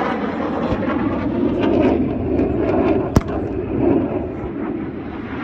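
Aircraft engine drone overhead, swelling in the middle, with a single sharp crack about three seconds in.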